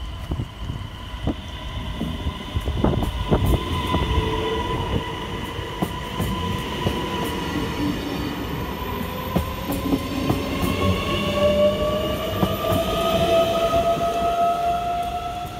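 An X52 Regina electric multiple unit passing close by: wheel rumble with sharp clacks over the rail joints, mostly in the first few seconds. A motor whine runs through it and rises steadily in pitch in the second half.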